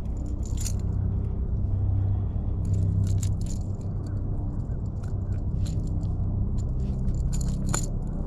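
Irregular sharp clicks and light rattling, from handling a just-landed bass and the lure, over a steady low hum; the loudest click comes near the end.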